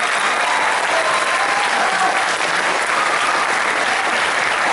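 Concert audience applauding steadily, with a few faint whoops.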